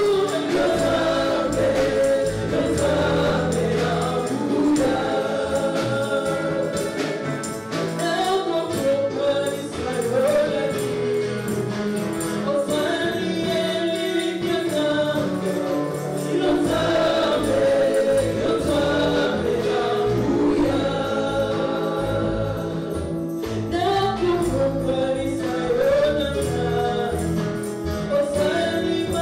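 Congolese gospel music: a choir singing a praise song over a band with a steady bass line.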